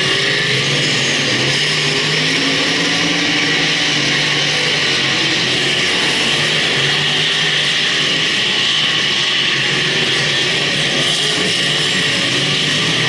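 Several speedway race cars' engines running together as they lap the track, a steady loud din with engine notes wavering up and down.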